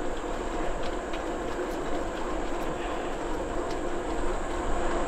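Bicycle rolling along at a steady pace: an even hum of tyres and drivetrain with a few faint ticks.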